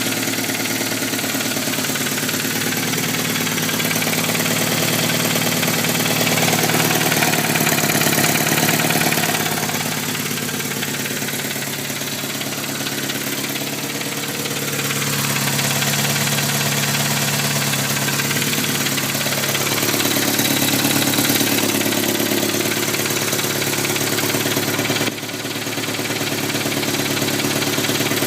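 Turbocharged Honda S2000 AP1's F20C four-cylinder engine idling, its note shifting a few times, with a weird tick coming from the engine whose cause is unknown.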